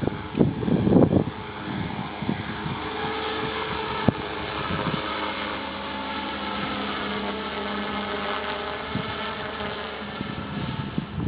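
Align T-Rex 450 electric RC helicopter running steadily, its motor and rotor giving an even whirring hum. Gusts of wind buffet the microphone in the first second or so.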